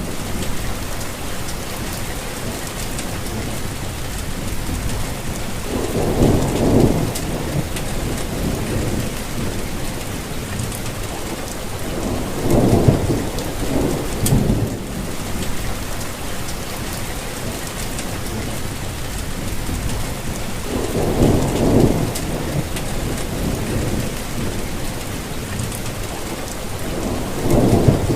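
Steady rainfall, an even hiss with faint drop ticks, under a low rumble that swells and fades four times, about every seven seconds.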